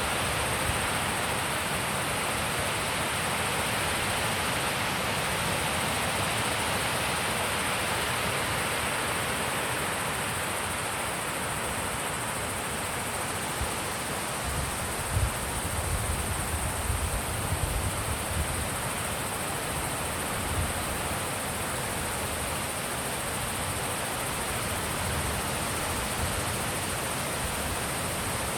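Wind blowing steadily through an open mountain setting, a constant rushing hiss. Around the middle, a few low buffets of wind hit the microphone.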